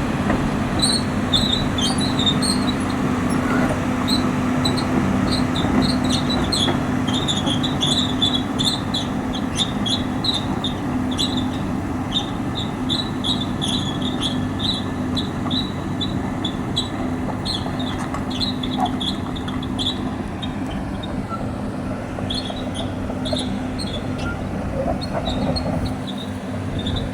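Cat 320D excavator's C6.4 diesel engine running steadily under load, with many short high-pitched squeaks over it that stop briefly about two-thirds of the way through.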